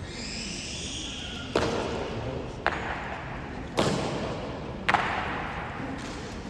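Honor guard rifle drill: four sharp strikes about a second apart, each echoing, with a faint high ringing in the first second.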